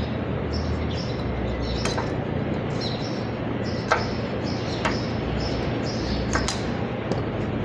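Short high chirps repeating every half second or so over a steady low hum, with a few sharp clicks: one about two seconds in, a louder one about four seconds in, and another about six and a half seconds in.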